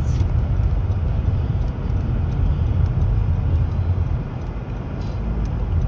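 Car's steady low road and engine rumble, heard from inside the moving car.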